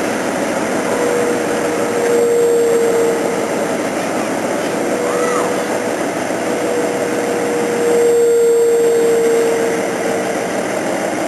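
Steady mechanical drone of a running engine with a constant whine, swelling in loudness twice.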